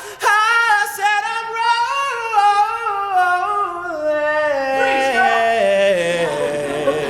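A cappella singing: a solo voice sings a long wordless run that steps down in pitch, and other voices join in harmony about five seconds in.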